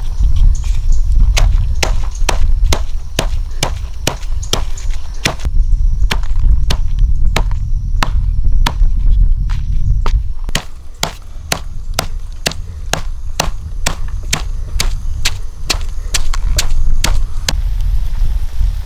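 A steady series of sharp chopping strokes, two to three a second, stopping shortly before the end, over a low rumble.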